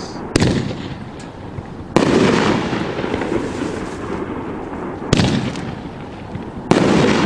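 A 500-gram, 7-shot consumer firework cake firing: four sharp booming shots, the first near the start, then about two, five and nearly seven seconds in. Each is followed by a lingering rumble.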